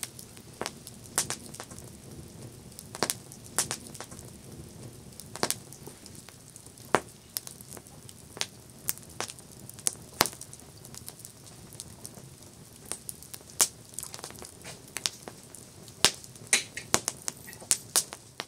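Wood campfire burning and crackling: irregular sharp pops and snaps over a soft low hiss of the flames, with a quick run of pops near the end.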